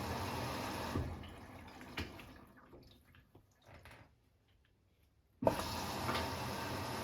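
Hotpoint WMFUG942 washing machine filling with water on its Autoclean cycle, the inflow rushing steadily. About a second in it dies away to a few faint drips, then the rushing starts again suddenly about five and a half seconds in.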